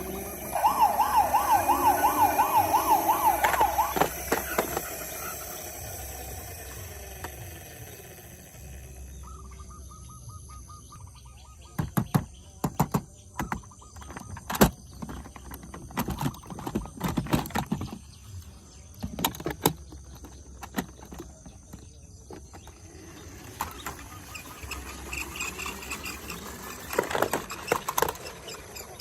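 Toy emergency vehicle's electronic siren warbling rapidly for about three seconds, then fading. Later, a short steady beep, followed by a run of sharp clicks and knocks.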